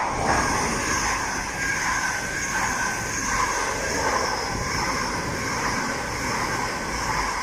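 Great Western Railway Class 800 IET train passing through the station at speed: a loud, steady rush of wheel and rail noise with a high hiss, starting suddenly as it arrives.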